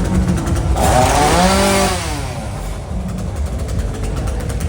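Chainsaw idling, revved up once about a second in, its pitch rising and then falling back over about two seconds.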